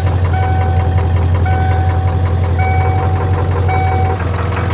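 Ford Power Stroke diesel engine idling steadily with a diesel knock, just after a cold start. Four pitched electronic beeps sound about once a second over it.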